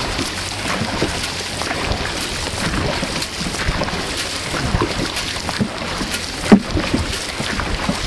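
Dragon boat paddles dipping and splashing in the water as the crew paddles hard, a steady wash of water noise with many small splashes. A single sharp knock stands out about six and a half seconds in.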